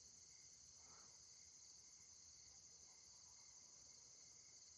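Faint chorus of crickets at night: a steady, high-pitched pulsing trill.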